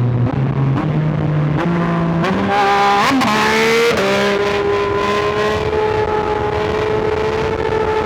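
Yamaha R9 sport bike's three-cylinder engine under way, its pitch stepping up several times in the first two seconds as it is shifted down through the gears. About three seconds in it revs quickly up and down, then holds a steady, slowly rising pitch.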